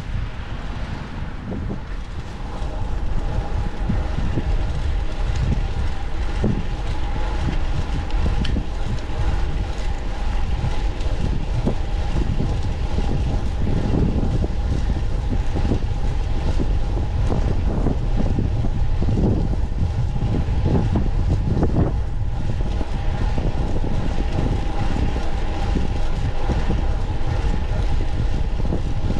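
Wind buffeting the microphone of a fixed-gear bicycle on the move, a dense low rumble with irregular gusts, under a faint steady hum.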